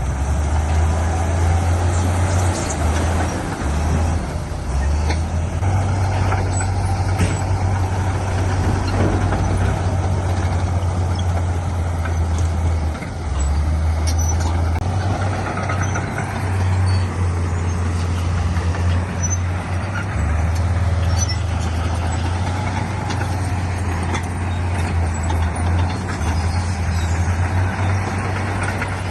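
Heavy diesel earthmoving machinery, a bulldozer and dump trucks, running under load with a steady low engine drone that shifts a little in pitch and level, plus a few faint knocks.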